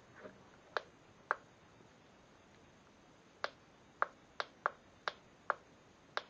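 About nine sharp clicks, irregularly spaced and coming faster in the second half, from the power switch of a toy RC helicopter being flicked on and off.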